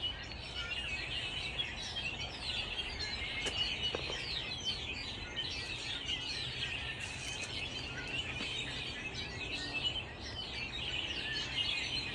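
A chorus of many small birds chirping and calling at once, with quick, overlapping down-slurred notes.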